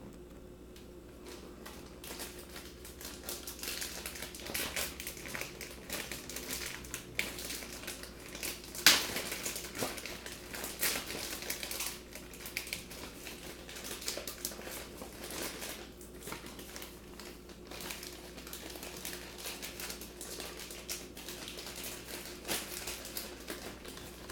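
Stiff plastic blister packaging being worked open by hand to free a Hot Wheels die-cast car: an irregular run of clicks, crackles and crinkles, with a louder snap about nine seconds in.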